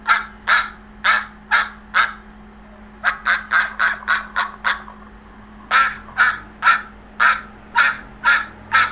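Repeated calls of domestic poultry, about two short calls a second, with a quicker run of five or six calls in the middle.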